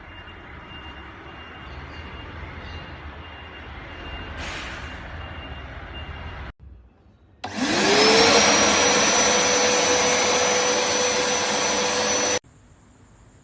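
PowerPac PPV1500 1200-watt wet and dry vacuum cleaner switched on about halfway through: its motor whine rises quickly and settles into a loud steady run for about five seconds, then cuts off abruptly. Before it, a quieter steady machine hum with a faint thin tone.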